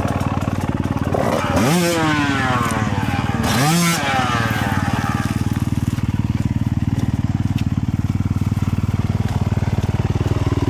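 Motorcycle engine running, revved up sharply twice in the first few seconds, then settling back to a steady low running beat.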